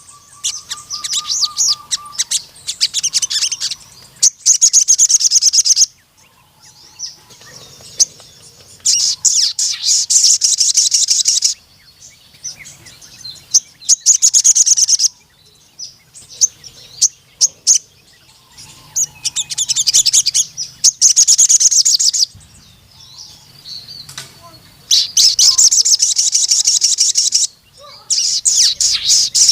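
Crimson sunbird (sogon) singing in full voice: bursts of very rapid, high trills, each lasting two to three seconds, repeated about seven times with short pauses between them.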